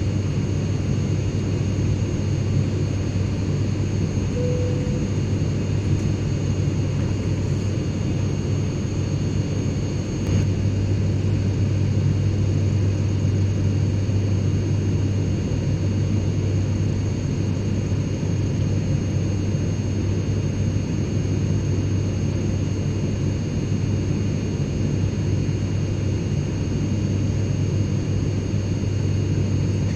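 Airplane cabin interior drone: a steady deep hum under a hiss, with a few faint high whining tones held over it. A brief faint tone sounds about four seconds in, and about ten seconds in there is a small click and the drone gets slightly louder.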